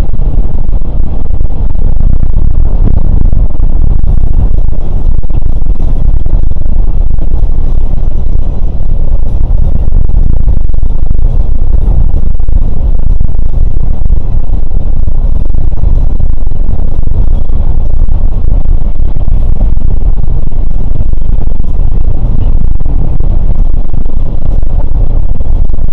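Scania K410 coach on the move: a loud, steady low rumble of engine and road noise that keeps up without a break, with faint light ticks and rattles over it.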